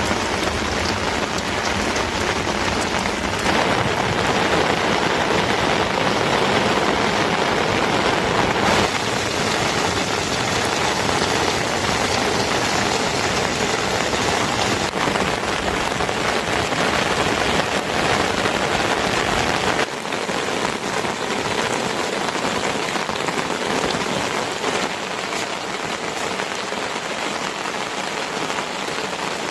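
Steady rain falling, an even hiss. It grows a little louder a few seconds in and eases off about two-thirds of the way through.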